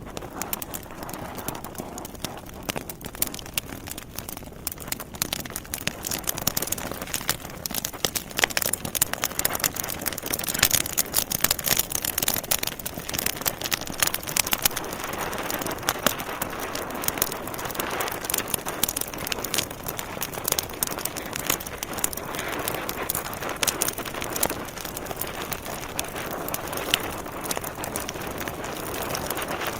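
Logs burning in a fireplace: dense crackling with many sharp pops and snaps over a steady rushing hiss of flames. The crackles come thickest about a third of the way in, and the rushing flame sound grows stronger in the second half.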